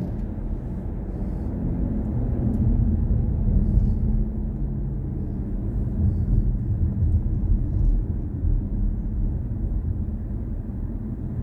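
Steady low road and tyre rumble of a BMW i4 M50 electric car driving.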